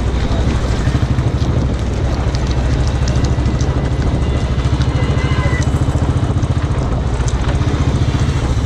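Royal Enfield motorcycle engine running steadily, with an even, rapid pulsing beat.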